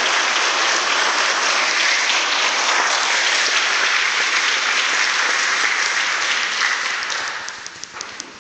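Audience applauding steadily, dying away near the end to a few last separate claps.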